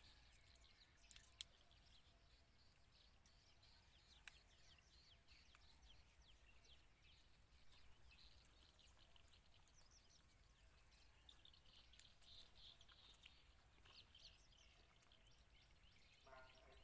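Faint outdoor ambience with many short bird chirps repeating throughout, and a few soft clicks about a second in and again around four seconds.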